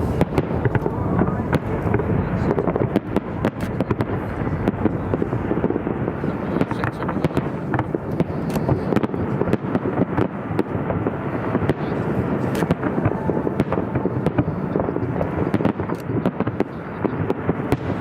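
A fireworks display going off continuously: a dense run of sharp bangs and crackles over a steady rumble.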